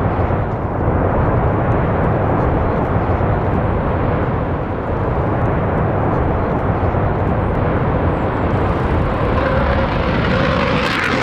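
Aircraft engine rumble, a steady dense roar that grows brighter near the end as the aircraft draws closer.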